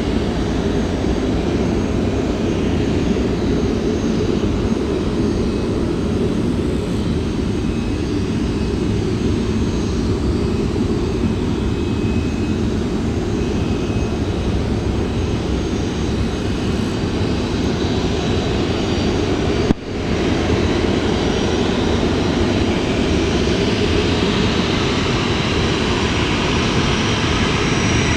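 Boeing 737-400's CFM56-3 jet engines running steadily: a loud, even rumble with faint high whining tones above it. The sound briefly dips and drops out about twenty seconds in.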